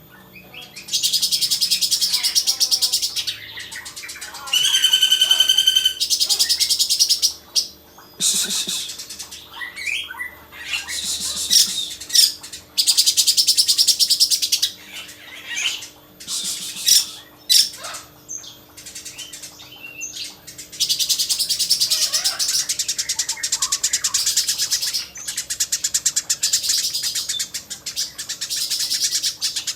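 A songbird singing in long bursts of rapid, high chattering trills, with a short run of clear repeated whistled notes about five seconds in.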